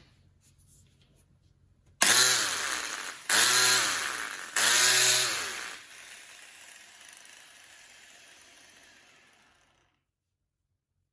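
Makita 9558 angle grinder's motor switched on in three short blips, each spinning up and then dropping in pitch, before it winds down to a stop.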